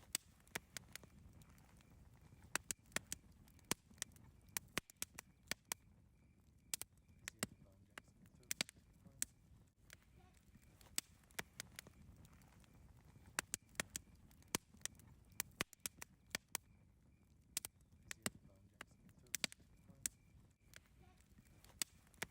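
Wood campfire crackling: sharp, irregular pops and snaps, sometimes several in quick succession, over a low, steady rumble of the burning fire.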